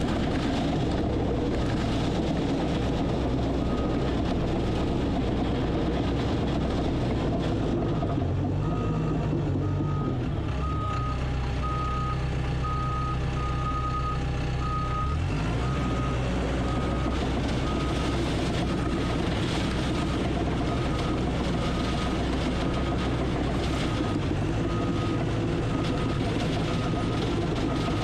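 Heavy earthmoving machine's diesel engine running, with its backup alarm beeping steadily as it reverses. The engine note changes for a few seconds in the middle.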